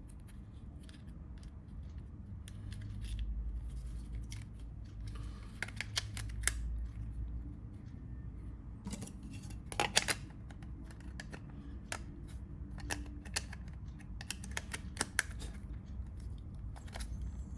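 Small, irregular clicks and taps of a Nokia 3310's plastic and metal parts being handled and fitted together, over a low steady hum. The loudest is a close double click about ten seconds in.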